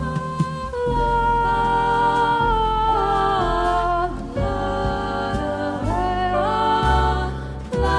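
Live jazz group playing: voices holding and bending long notes over bass, piano and drums.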